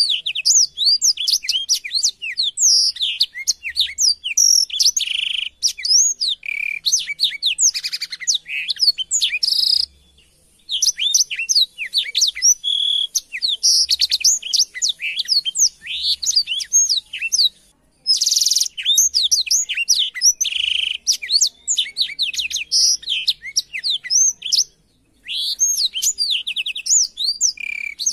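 Blackthroat (black-throated canary) singing a long, fast song of rapid chirps, trills and sweeping whistled notes. The runs break off briefly three times.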